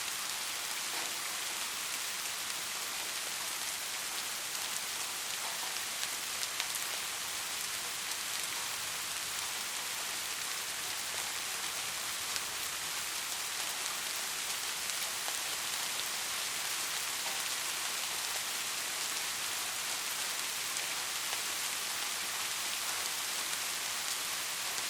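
Steady rain: an even, high hiss with scattered individual drop ticks and no thunder.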